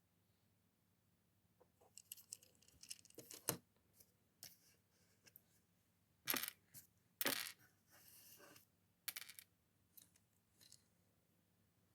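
Small hard plastic Lego pieces being handled: scattered light clicks and rattles, with brief crinkling of packaging a couple of times.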